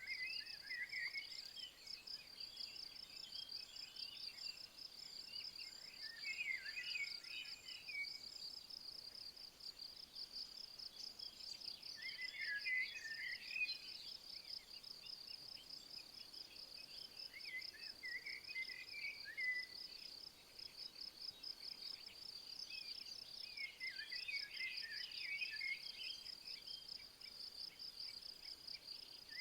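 Crickets chirping in a steady, fast-pulsing high trill, while a songbird sings short warbling phrases about every five or six seconds.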